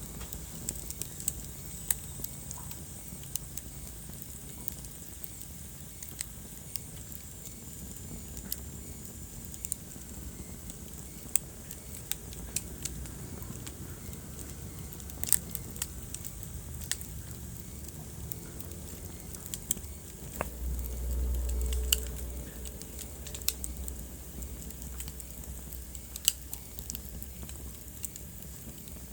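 Wood fire burning in a fireplace: irregular sharp crackles and pops over a steady low rumble. The rumble swells louder for about two seconds around two-thirds of the way through.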